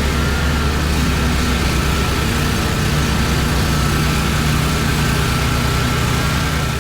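27 hp Loncin V-twin engine running at a steady speed, with a thin, steady high whine above the engine note.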